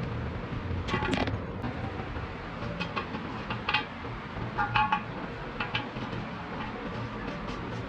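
Small metal objects clinking and ringing briefly, about five times, over a steady low hum.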